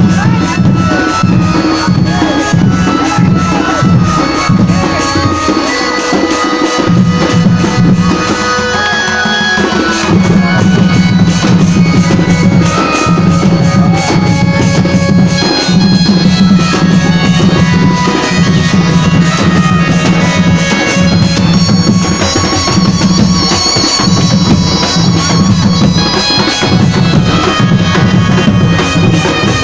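Loud Sambalpuri dance music with a heavy, steady drum beat under a melody line, playing without a break.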